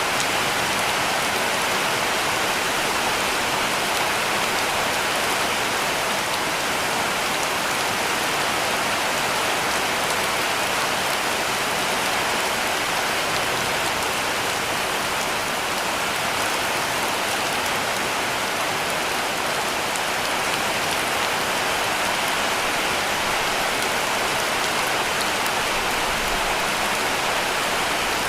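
Heavy rain falling steadily on a cabin roof: a dense, even patter that neither builds nor fades.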